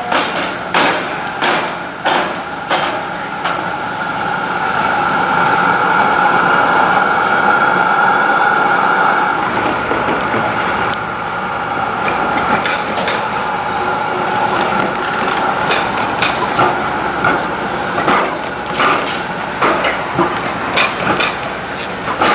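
Rail vehicle wheels passing over the tram square's railway–tram track crossing, clacking over the rail joints in a quick rhythm. A steady whine takes over for several seconds in the middle, and then the clacking returns.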